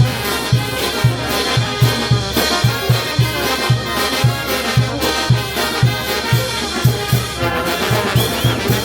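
Peruvian brass band playing, with trumpets and trombones over a steady bass drum beat about twice a second.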